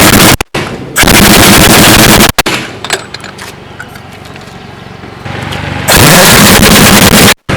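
Pneumatic impact wrench hammering on truck wheel lug nuts in loud bursts, each winding up with a rising whine before the rapid hammering. One burst ends just after the start, another runs about a second and a half, and a third comes near the end after a quieter gap.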